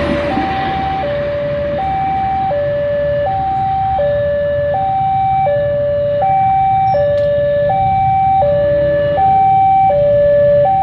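Electronic two-tone warning alarm sounding hi-lo, switching between a low and a higher tone about every 0.7 s, over a steady low rumble.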